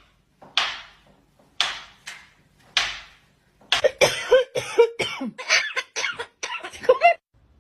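Four coughs about a second apart, then a fast run of short chattering sounds that slide up and down in pitch.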